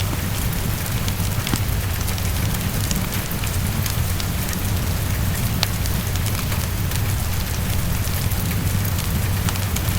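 Steady heavy rain on a window, a dense even hiss with a low rumble beneath, mixed with the scattered crackle and pops of a fireplace fire.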